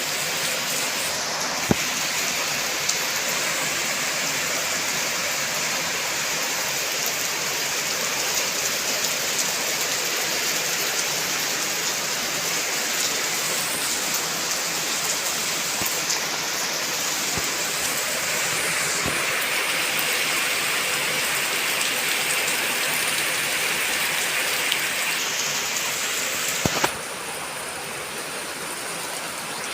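Heavy rain falling steadily, a dense even hiss with a few sharp ticks of drops striking something. About 27 seconds in the sound drops suddenly to a quieter, duller level.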